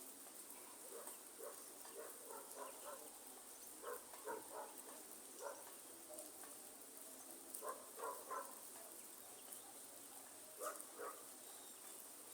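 Faint steady rain hiss with soft, short animal calls in small clusters every second or two, and a thin steady high whine above them.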